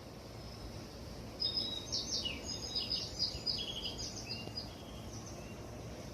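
A small songbird singing a quick run of high chirps and short trills for about three seconds, over a steady low background hum.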